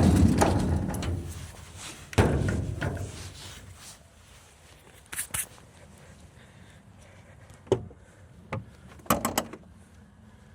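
A heavy door slams shut with a deep thud, and a second slam follows about two seconds later. Several light clicks and knocks come after it.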